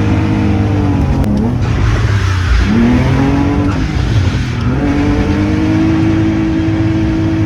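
Car engine driven hard, revving up and dropping off several times as the driver works the throttle and gears, then holding a steady high pitch under load for the last couple of seconds.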